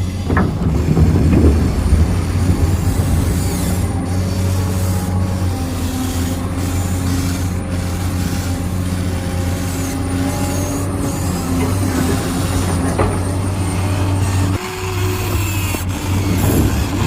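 Huina 1593 radio-controlled construction vehicle running: a steady motor hum with whining gear tones that shift in pitch, briefly dropping off near the end.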